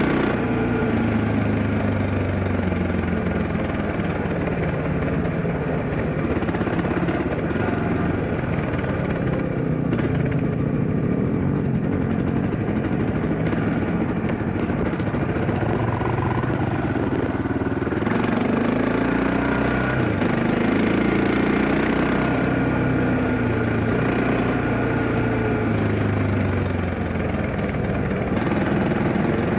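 Dirt bike engine running hard, its pitch rising and falling again and again as the throttle opens and closes and the gears change.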